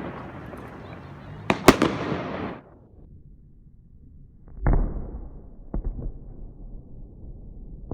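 Fireworks going off. First comes a hissing rush with two sharp cracks. Then, after a short lull, there is a deeper boom with a rumbling tail and two fainter pops.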